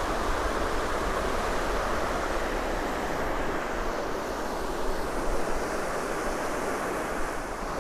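Surf washing onto a sandy beach, a steady hiss of breaking waves, with some wind on the microphone.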